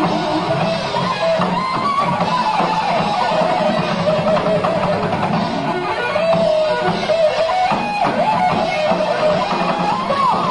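Live heavy metal band playing: a lead electric guitar line with bends and wavering pitch over rhythm guitar, bass and drums.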